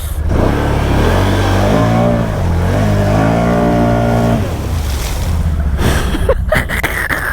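Can-Am Outlander ATV engine revving up, holding, then easing off about four seconds in, with water splashing as it drives through a deep water hole.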